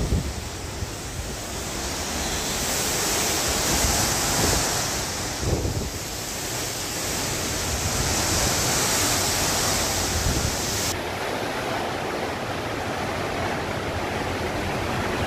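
Hurricane-force wind blowing hard and steadily, swelling in gusts, with the gusts buffeting the microphone in low rumbles.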